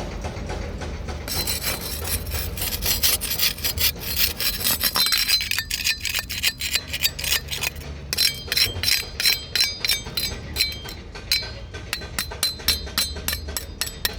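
Fast, repeated rasping scraping strokes that start about a second in and go on in quick rhythmic runs, with a faint ringing note among them, over a low steady rumble.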